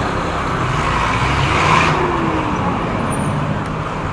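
Road traffic heard while riding a motorcycle: engines running, with a steady low rumble and a brief louder rush a little under two seconds in.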